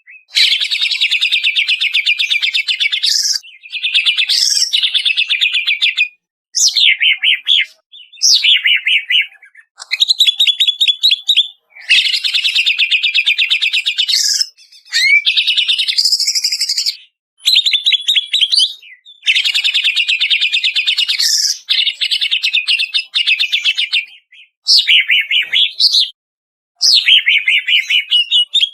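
Greater green leafbird (cucak ijo) singing loudly in long, rapid chattering phrases of one to three seconds, each broken off by a short pause: a masteran song recording made to prompt caged birds to sing.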